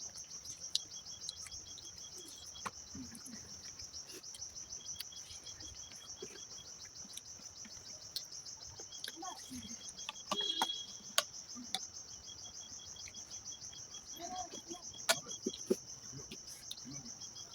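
Steady high-pitched insect chirping, crickets or cicadas, with short runs of quick, evenly spaced chirps starting and stopping every few seconds, and a few faint clicks.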